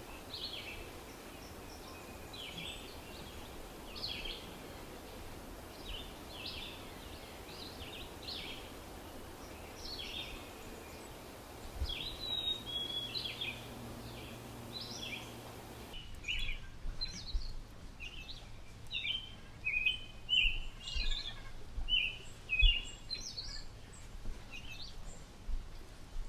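Bird-like chirping calls over a steady background hiss, one short chirp every second or two at first. After a change about sixteen seconds in, the chirps come quicker and more busily. A faint low hum runs beneath them for a few seconds before that change.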